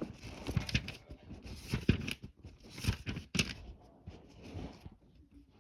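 Small toy cat figures and their packaging being handled: a string of light clicks, taps and crinkling rustles that dies away near the end.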